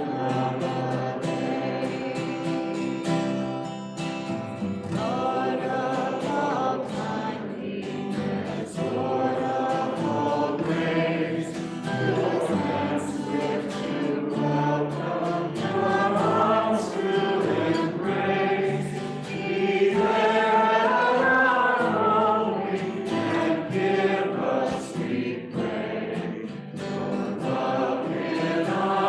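Congregation singing a hymn together, many voices with organ or other steady accompaniment.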